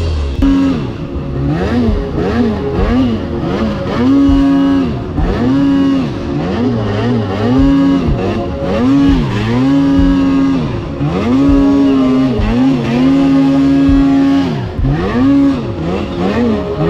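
Snowmobile engine revving up and down over and over, its pitch rising and falling about once a second and at times held high for a second or two.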